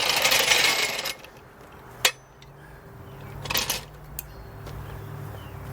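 Metallic clatter of a steel floor jack being handled: a rattling burst in the first second, a sharp clank about two seconds in, then a shorter rattle and a click.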